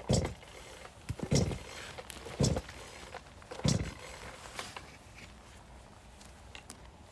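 Four heavy blows about a second and a quarter apart, splitting firewood, followed by a fainter knock.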